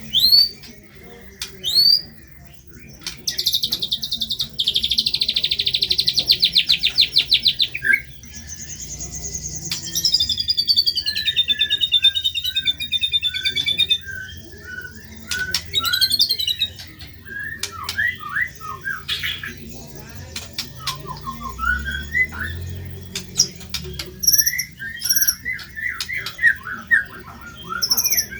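White-rumped shama (murai batu) singing a varied song: a long, very fast trill about three seconds in, then whistled phrases and runs of short, repeated, falling notes.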